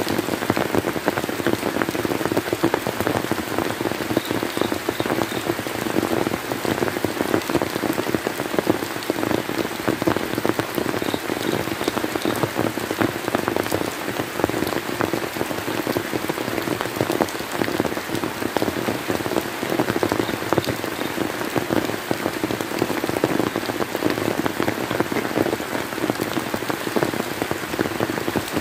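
Steady rain falling, a dense patter of drops striking a surface.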